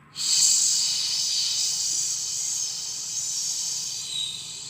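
A steady hiss that starts suddenly, is loudest at the outset and slowly fades over about five seconds.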